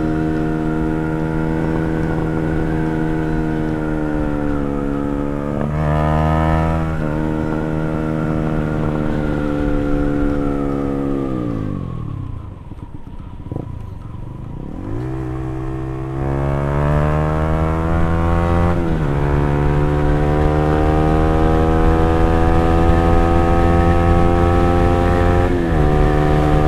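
Motorcycle engine running while riding, with several gear changes. About halfway through it slows almost to idle, then accelerates away again and shifts up.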